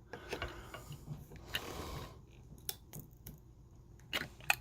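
Two pairs of channel-lock pliers gripping and bending a chip board to pop off a blob chip: scattered small metal clicks and a brief scrape, with two sharper clicks near the end.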